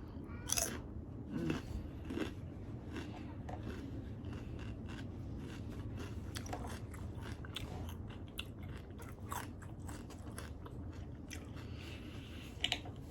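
Close-up eating sounds of crispy air-fried lemon pepper chicken wings being bitten and chewed: scattered crunches and mouth clicks over a steady low rumble.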